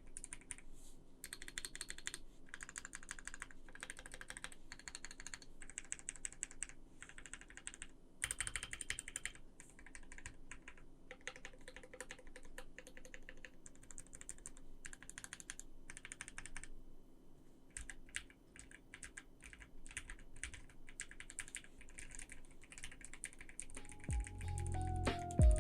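Typing on a Voice65 custom mechanical keyboard with lubed Turquoise Tealios linear switches: bursts of quick keystrokes separated by short pauses. Music comes in shortly before the end.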